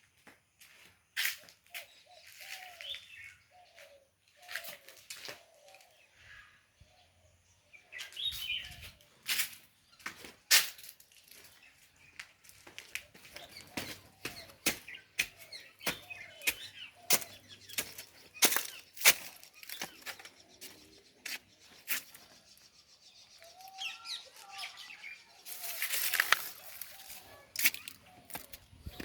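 Irregular sharp clicks and rustling, with birds chirping.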